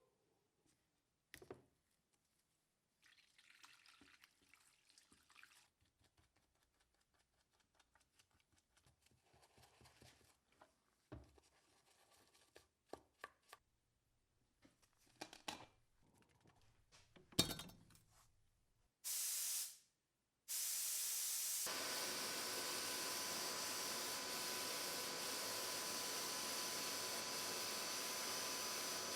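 Scattered light knocks and clicks of parts being handled, then a short spurt of hiss about nineteen seconds in, followed by a steady loud hiss that runs on.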